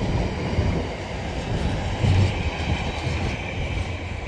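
A train running past on the line, a steady rumble of wheels on the rails that cuts off suddenly at the end.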